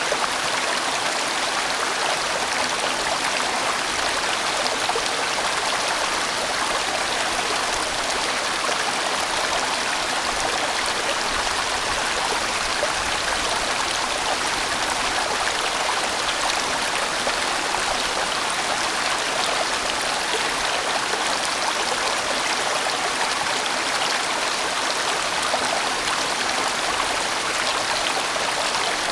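A large mountain stream flowing over rocks in a broad, steady rush, with fine splashing in it.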